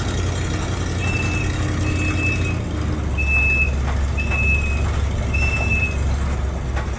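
Five short toots of a whistle on the 1936 Divco bread truck, each about half a second, one steady high pitch. Underneath runs the truck's swapped-in Ford 302 V8 as it drives.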